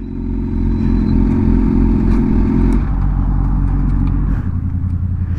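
Motorcycle engine running at speed while riding, with wind rush on the microphone; its steady drone drops away about three seconds in.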